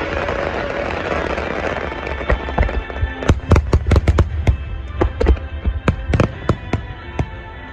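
Fireworks exploding: a dense wash of noise fading over the first couple of seconds, then a quick, irregular run of sharp bangs from about three seconds in. Music plays underneath.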